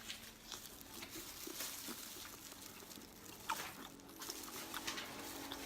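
Faint close-miked eating sounds: chewing and wet mouth clicks, scattered irregularly.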